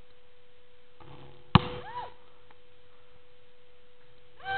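A basketball hits once, a sharp loud impact about a second and a half in, followed by a brief squeak that rises and falls. A steady faint tone runs underneath.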